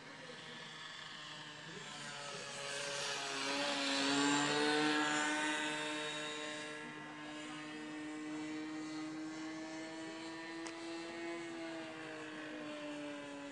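OS 55 two-stroke glow engine of a radio-controlled trainer airplane running at flying throttle with a 12x6 propeller as it flies past: the engine note grows loudest about four seconds in, dips slightly in pitch as it passes, then carries on more distantly.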